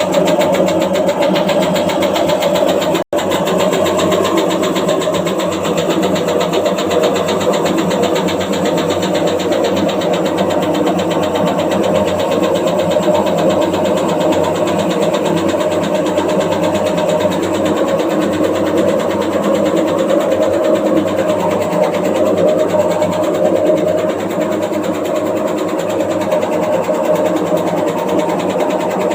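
Washing machine running with a loud, steady, rapid mechanical rattle and hum as it shakes and moves in place, the fault the owner is showing. The sound cuts out for an instant about three seconds in.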